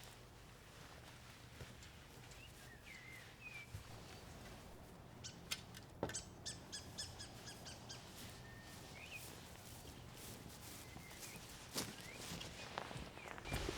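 Faint short bird chirps, a few scattered calls, with a quick run of sharp clicks or taps in the middle over a faint steady low hum.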